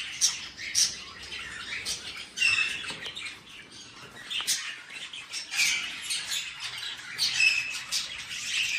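Budgies chirping and squawking, many short calls overlapping.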